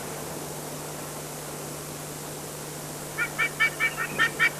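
A bird calls a quick run of about eight short, clipped notes, about five a second, starting around three seconds in, over a faint steady low hum.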